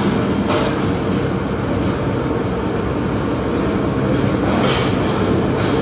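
Diesel locomotive running as it slowly hauls a train of hopper wagons past, a steady engine drone with the rumble of the rolling wagons. Twice a short, brighter noise rises over it, about half a second in and near the end.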